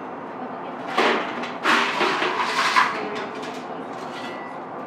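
Rough scraping and clattering of a blacksmith's tools working the coal forge fire: a short clatter about a second in, then a longer stretch of scraping and clinking.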